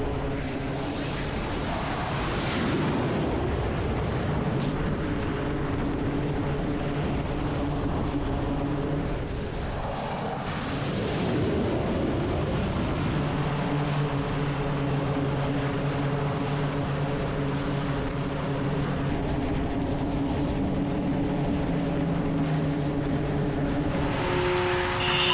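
Aircraft engines running on a carrier flight deck: a loud, steady drone with a low hum, and brief whining swells about two seconds and ten seconds in. Near the end the sound changes abruptly to a different set of steady tones.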